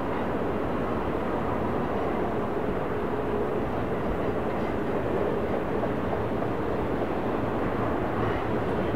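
Freight train rolling past steadily: an even rumble of steel wheels on the rails with a faint, steady locomotive hum underneath.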